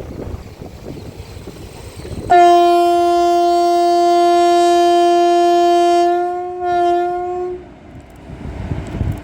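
Train locomotive horn sounding one long blast of about five seconds, wavering briefly near its end before cutting off, over the low rumble of the train.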